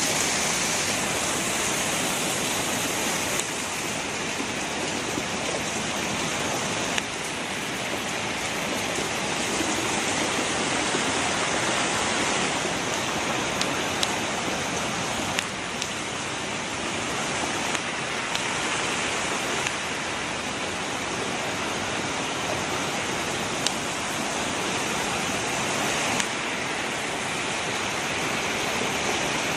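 Rushing floodwater: a steady, even rush of water, with a few faint clicks scattered through.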